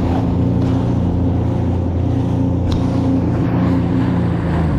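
Jet ski engine running at a steady cruising speed, its even drone carrying over a rush of wind and water; the note drops away right at the end.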